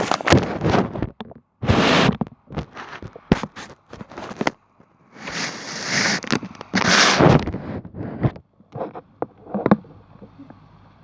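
Handling noise: irregular rustling, scraping and knocks of a wallet being handled close to the microphone, with two longer rubbing stretches past the middle.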